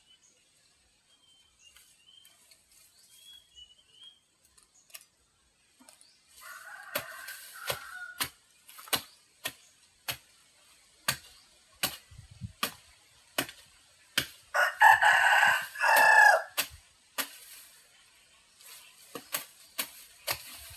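A rooster crows once, a loud call lasting about two seconds, a little past the middle. Around it runs a regular series of sharp knocks, one to two a second, with faint high bird chirps near the start.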